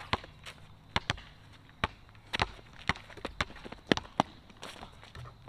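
A basketball being dribbled during play: about a dozen sharp bounces at uneven spacing, some in quick pairs.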